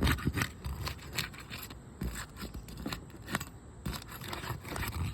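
The adhesive seal strips of 3-tab asphalt shingles being broken with a flat pry tool (roof snake) slid under the shingle: irregular scraping, tearing and crackling.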